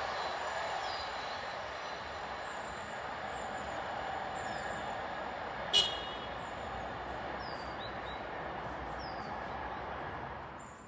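A passenger train of maroon coaches rumbling away along the line, its sound fading steadily as it recedes. A single sharp metallic click a little past halfway, with birds chirping faintly.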